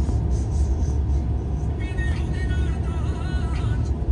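Steady low rumble of a moving train carriage. About halfway through, a high wavering pitched sound lasts under two seconds.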